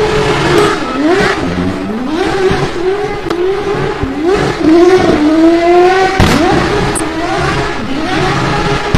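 Race car engine revving hard, its pitch climbing and dropping again about once a second as it goes through quick gear changes. A sharp crack about six seconds in and a smaller one a second later.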